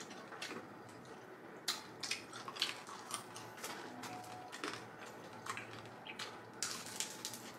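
Close-up eating sounds: chewing, with irregular crisp crunches and wet mouth clicks.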